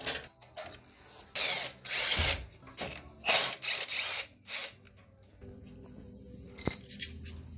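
Ratchet wrench clicking in about six short runs of strokes, then going quiet, with a low steady hum under the last few seconds.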